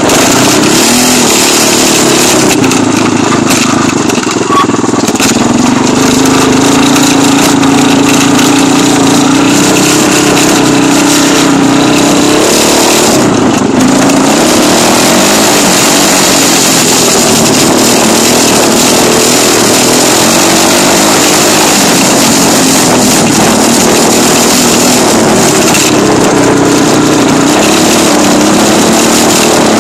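Small dirt-bike engine running close to the microphone, loud throughout. Its pitch rises and falls as the throttle is opened and eased off.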